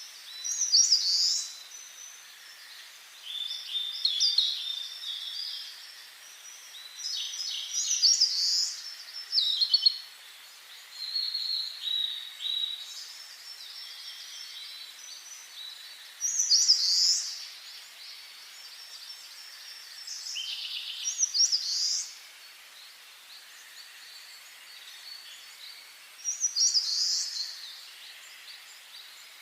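Songbirds singing: short, high, chirping song phrases of a second or two, repeated every few seconds, over a steady faint hiss.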